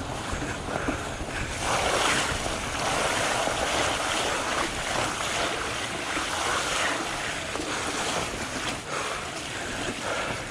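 Steady rushing noise of riding a fat bike on a dirt trail: wind on the microphone, rising and falling, over the tyres rolling on the ground.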